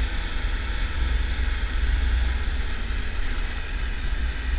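Triumph Tiger 1200 motorcycle riding along, its engine running under a steady rumble of wind buffeting on the camera microphone.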